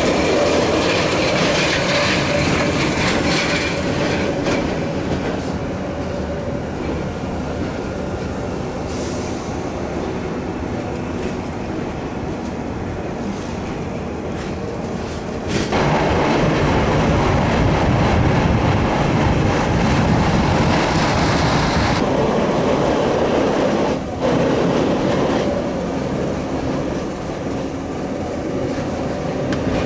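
Bex–Villars–Bretaye narrow-gauge electric train running, heard from on board: wheels on rail with a steady whine at first. About halfway through it turns to a louder, rougher rumble.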